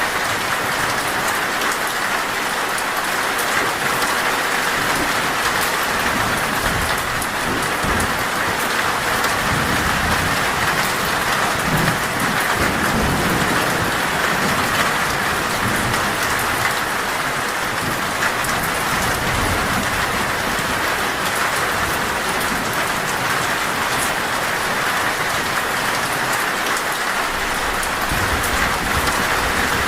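Heavy rain falling steadily on a metal roof, with a low rumble of thunder through the middle.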